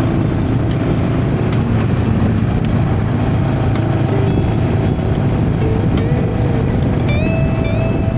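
Harley-Davidson Sportster's air-cooled V-twin running steadily while riding, mixed with wind and road noise.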